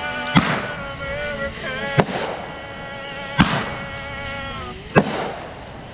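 Backyard fireworks going off: four sharp bangs about a second and a half apart, with a high whistle in the middle. Music and voices play underneath.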